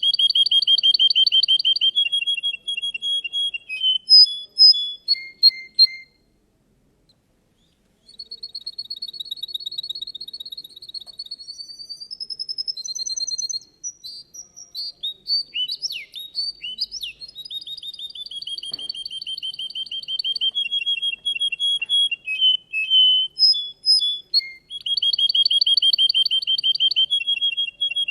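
Russian canary singing: long, rapid trills and rolls of repeated notes, some rising in pitch. There is a break of about two seconds roughly six seconds in, after which the song picks up again.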